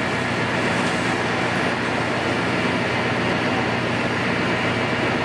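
Steady mechanical noise with a low hum, even throughout and without any sudden knocks or pauses.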